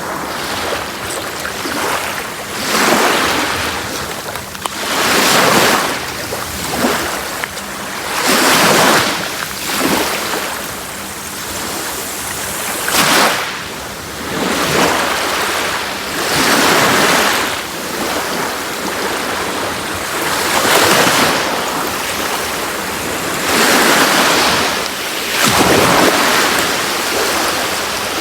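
Sea waves breaking and washing onto a shore, the surf swelling and falling away in a steady rhythm, one surge every three to four seconds.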